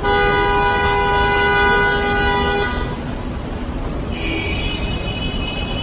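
Train horn sounded in one long steady blast lasting about two and a half seconds. About four seconds in, a second, higher steady tone starts.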